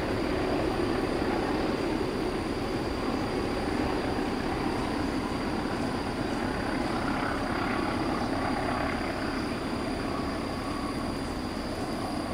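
Rumble of a train receding into the distance along the track, a steady noise that slowly fades.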